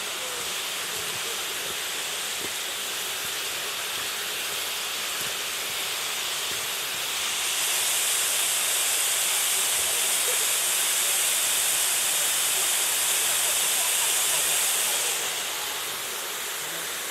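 Waterfall rushing: a steady hiss of falling water, growing louder about seven seconds in and easing back near the end.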